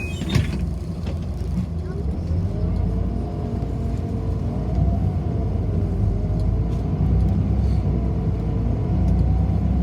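City bus heard from inside, running with a low rumble and a whine that rises and falls in pitch as its speed changes, with one sharp knock just after the start.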